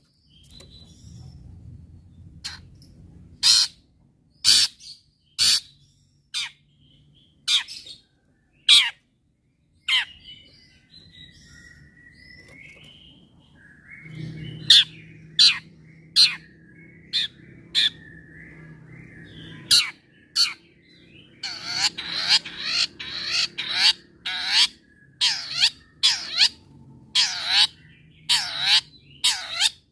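Long-tailed shrike (cendet) singing: sharp, loud single notes about a second apart with a softer warbling trill in between, then, about two-thirds of the way in, a fast rolling run of quickly repeated notes. A faint low hum runs underneath.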